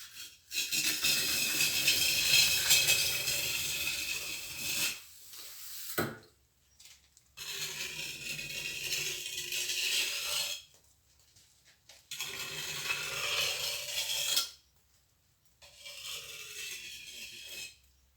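Steel plastering trowel scraping and spreading mortar in four strokes of a few seconds each, with short pauses between them.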